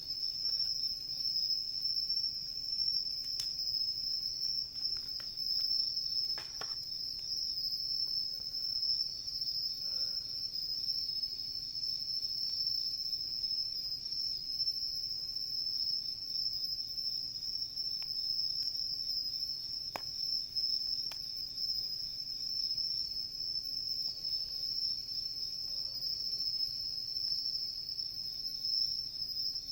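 A steady, high-pitched chorus of singing insects, with a handful of sharp pops from a wood campfire crackling.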